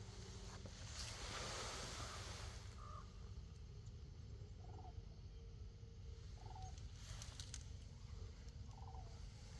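Ravens calling: about five short calls spaced a second or two apart, over a steady low rumble.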